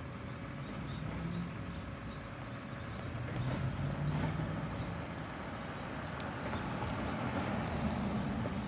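Garbage truck engine running, growing louder about three to four seconds in and again near the end, with a few faint knocks.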